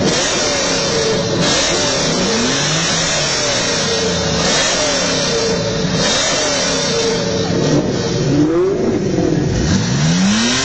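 Supercar engines revving, the pitch climbing and falling again and again, with a sharp rise in revs near the end.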